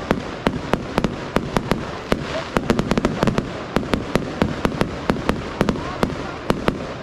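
Fireworks display: a rapid, irregular barrage of sharp bangs and cracks, several a second, over a continuous low rumble.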